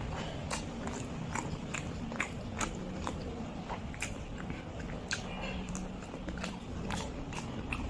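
Chewing a mouthful of rice and fish curry, with wet mouth clicks and smacks coming about two to three a second.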